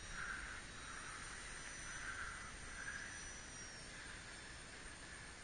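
Faint motor and propeller whine of a radio-controlled model Cessna 182 at full throttle in a climb, swelling and fading as the plane's distance changes, its high whine dropping slightly in pitch near the end.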